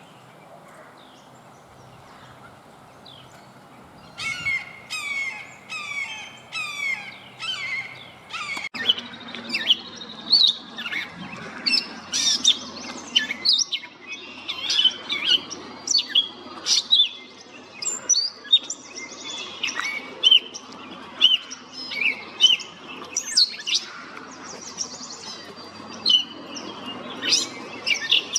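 Songbirds singing: about four seconds in, one bird starts a run of quick, repeated down-slurred notes, and from about nine seconds on, a busier chorus of many birds chirping and whistling overlaps it.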